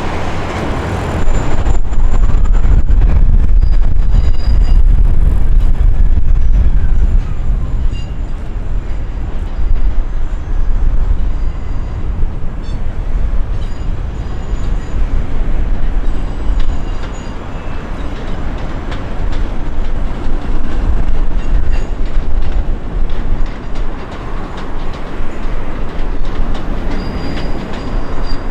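Thameslink train crossing a railway bridge: a deep rumble of wheels on track, with clatter over the rail joints and faint intermittent wheel squeal. It is loudest from about a second in to about seven seconds, then carries on at a lower, varying level.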